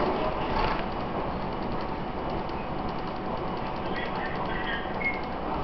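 Taiwan Railways EMU700 electric commuter train running, heard from inside the passenger car: a steady rumble and hiss of wheels on the track.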